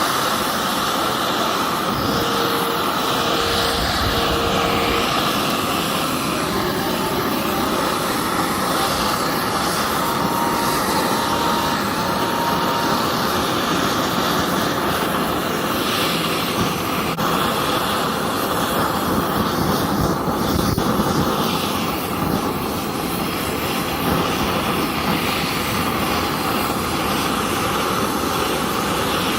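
Kioritz SRE2350G brush cutter's small two-stroke engine running steadily. Three short beeps sound twice over it, the second set higher.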